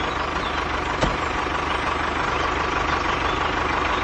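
Tractor engine sound running steadily with a low even pulse, as made for a toy tractor driving, with a single click about a second in.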